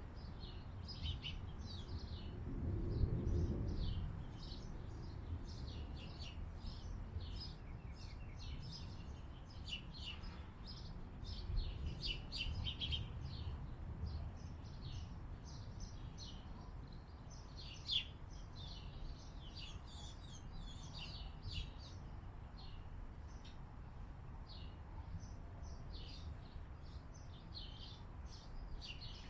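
Small birds chirping, many short high chirps one after another throughout, over a low rumble that swells about three seconds in and again around twelve seconds in. A single sharp click comes a little past halfway.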